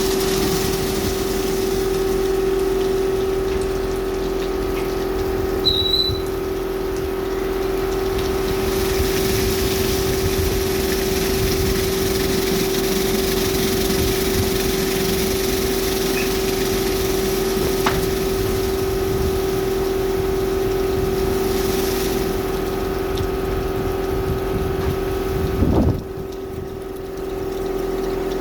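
Washtec SoftCare Pro rollover car wash at work: a steady pump hum with water spraying. Near the end there is a brief knock, after which the spray noise drops away.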